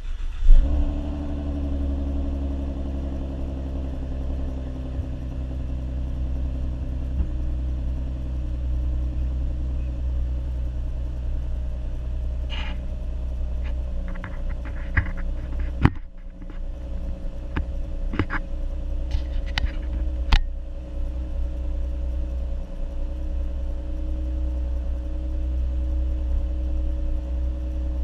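2014 Ford Mustang's 3.7-litre V6 on its stock exhaust starting up, the idle beginning high and settling lower over the first several seconds, then running at a steady idle. A few short clicks and knocks come through in the middle stretch.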